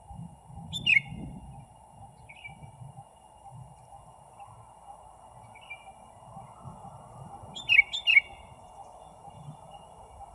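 A bird calling in short, sharp, downward-sliding chirps: one loud chirp about a second in, softer ones a few seconds apart, and a loud double chirp near the end.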